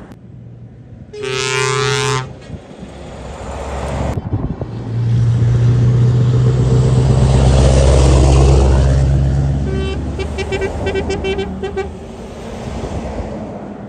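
Trucks passing in convoy and sounding their horns: a short horn blast about a second in, then a truck going by with a deep steady drone that swells and fades, followed by a run of quick pulsing horn toots.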